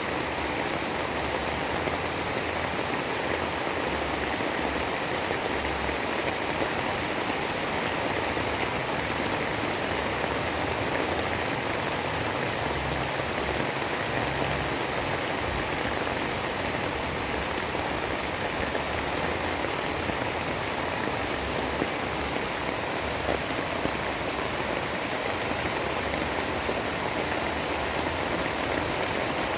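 Steady storm white-noise ambience: an even, dense hiss like heavy rain, with a patchy low rumble underneath.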